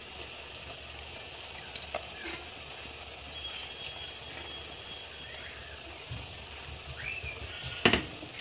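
Chopped onions and freshly added red masala paste sizzling steadily in ghee in a pan, with a few sharp clicks of the wooden spatula against the pan, the loudest near the end.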